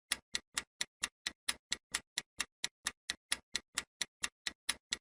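Clock-like ticking sound effect of a quiz countdown timer: sharp, even ticks about four to five times a second, marking the time left to answer.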